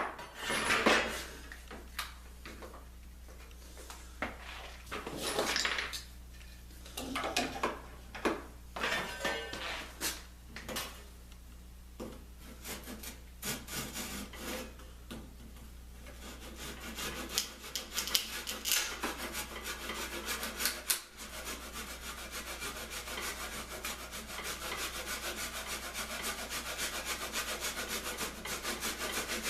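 Wood being worked by hand: irregular scraping and knocking in the first half, then a steady, fast back-and-forth rubbing on wood through the second half.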